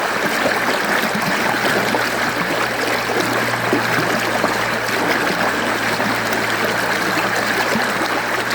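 Mountain stream water flowing and splashing steadily over rocks, a continuous rushing with fine gurgles.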